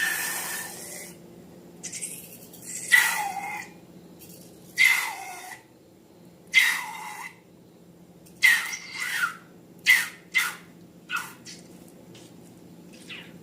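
Rubber balloon squealing as air escapes through its stretched neck: about ten short high squeals, each falling in pitch, coming quicker and shorter in the second half.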